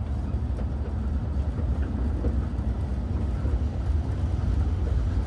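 Kurobe Gorge Railway narrow-gauge sightseeing train running along the track: a steady low rumble of wheels and carriages.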